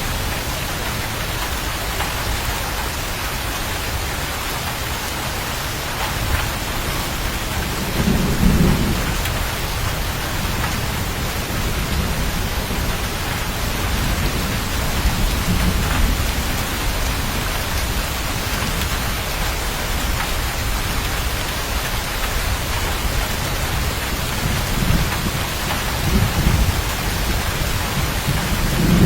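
Steady heavy rain with low rolls of thunder, the strongest about eight seconds in and several more in the second half.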